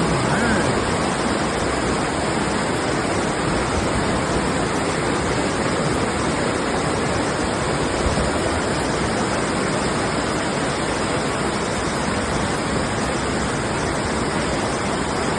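Flash-flood water rushing through a barranco in a steady, heavy torrent.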